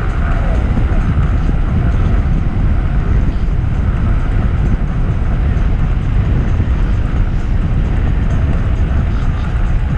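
Electric skateboard rolling along a trail: steady rumble of the wheels on the ground, with wind on the microphone.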